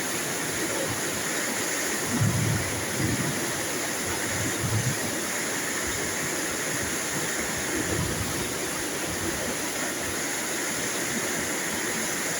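Steady rain falling, an even hiss, with a few short low rumbles of thunder now and then.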